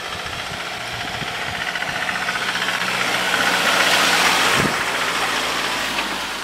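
A motor vehicle's engine running as it passes close by, growing louder to a peak about four seconds in and then easing off, with a hiss of tyres on a wet road.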